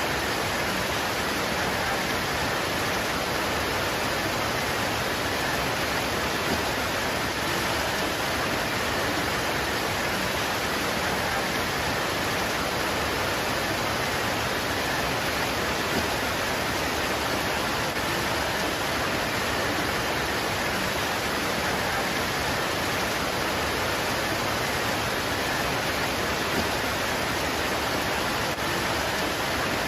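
Rain pouring on leaves, a steady even hiss with no breaks.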